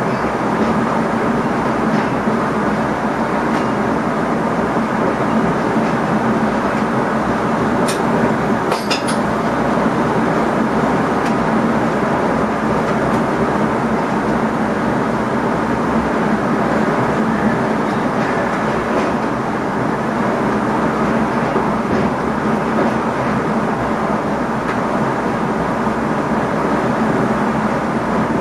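Steady running noise of an NS ICM electric train heard from inside the driver's cab: a continuous rumble of wheels on rails. A few short sharp clicks come about a third of the way through.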